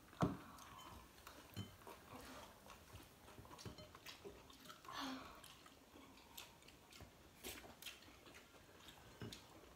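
Faint chewing and mouth smacks of people eating rice and fried food with their fingers, with scattered small clicks and a sharper click just after the start.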